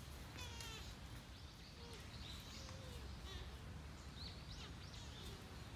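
Several birds chirping and calling, with a quick trill about half a second in and short rising and falling chirps throughout, over a steady low outdoor rumble.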